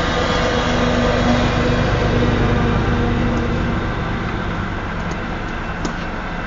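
Union Pacific tank-car freight train rolling past at low speed: a steady, loud rumble of steel wheels on rail, with a steady low tone for the first few seconds that then fades.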